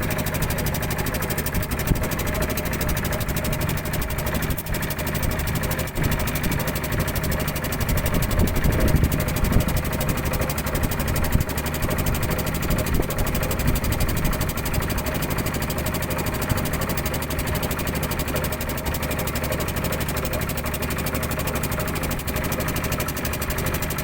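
Small fishing boat's engine running steadily at an even pace.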